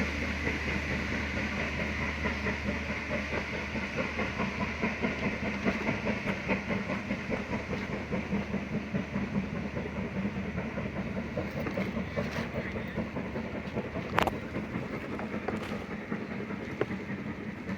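Heritage railway train running along the track, a steady rumble with quick clicking of the wheels over rail joints, slowly fading. A single sharp click about fourteen seconds in.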